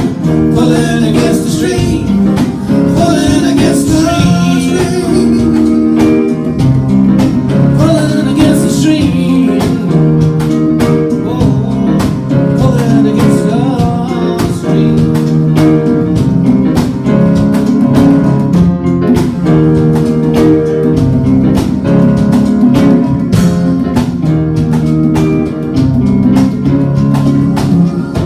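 A band playing, led by guitar, with steady strummed chords throughout.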